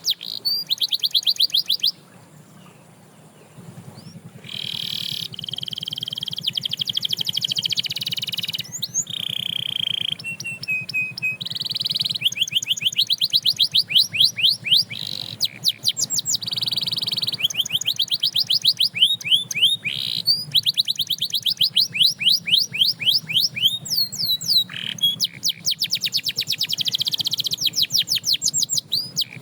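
Canary singing: long rolling song of fast repeated notes and trills, with a short lull about two seconds in before the song picks up again.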